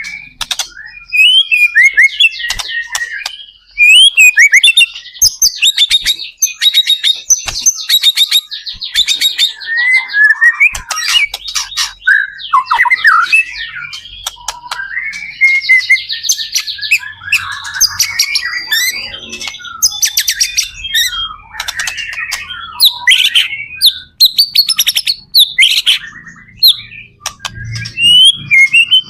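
White-rumped shama singing continuously: a fast, varied run of loud whistles, rapid trills and sharp clicking notes with frequent pitch glides.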